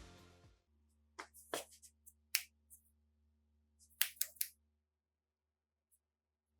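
The tail of music fades out, then a few short, sharp clicks and taps of rifle parts being handled, with a quick cluster of them about four seconds in.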